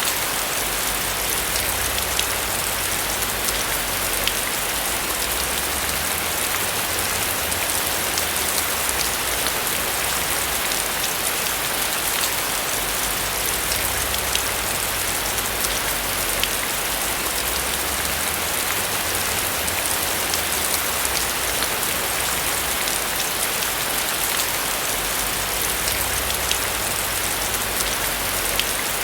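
Steady rain falling on a roof: a dense, even patter of drops with occasional sharper individual drop hits, over a low rumble that swells and fades.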